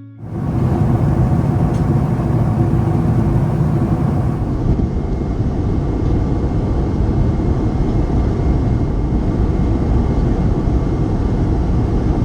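Loud, steady jet engine and airflow noise inside the cabin of a Boeing 777-300ER. It starts and stops abruptly.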